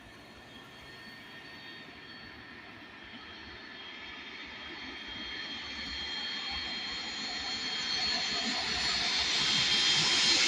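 Landing airplane approaching, its engines a whine with high thin tones over a rushing noise that grows steadily louder.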